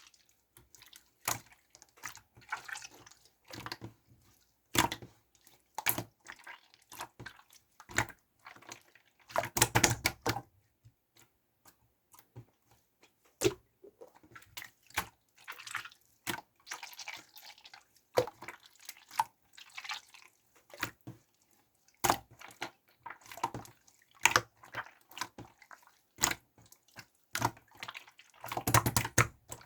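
Transparent pink slime being worked, making irregular wet pops, clicks and squelches. There are denser squishy runs about ten seconds in and near the end.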